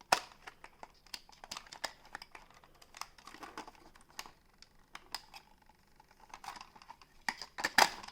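Plastic toy RC car being handled: irregular light clicks and taps of plastic parts, with a quick run of louder clicks near the end.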